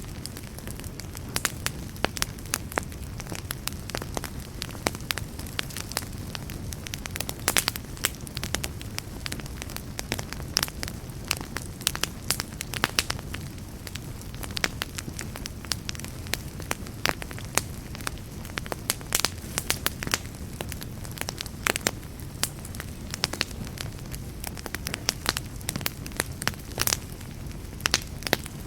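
Wood campfire burning, with a steady low rumble of the flames and frequent irregular sharp crackles and pops.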